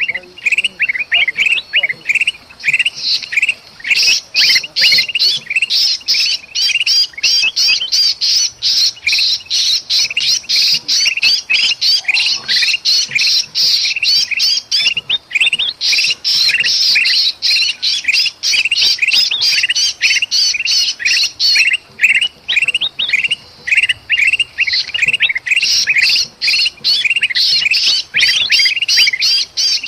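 Bulbuls (kutilang) in a dense, rapid, noisy chatter of harsh calls and chirps, the agitated calling of a trapped bird mixed with the excited calls of others. Brief lulls come about halfway through and again a little later.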